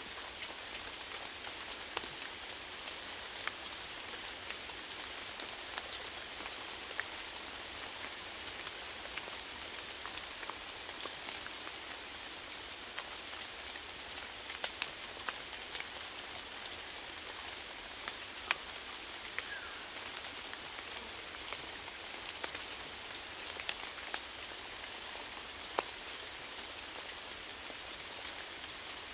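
Steady rain falling: an even hiss with scattered sharper ticks of individual drops striking close by.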